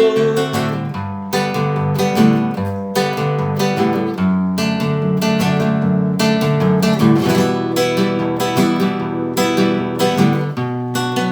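Instrumental break of a song: acoustic guitar strumming chords, with no vocals.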